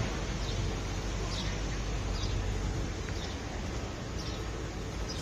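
A small bird chirping repeatedly, short high falling chirps about once a second, over a steady outdoor rumble and hiss.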